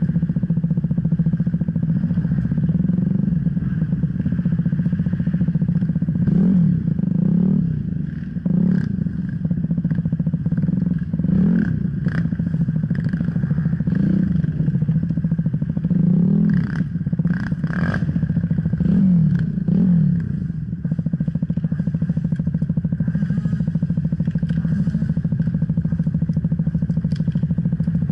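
Enduro dirt bike engine running under changing throttle, its pitch rising and falling again and again through the middle stretch, then steadier near the end. Sharp clattering knocks sound throughout from the bike over rough trail.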